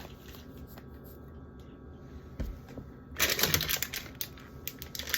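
A light knock about two and a half seconds in, then rapid crackling from about three seconds in: plastic food packaging being handled.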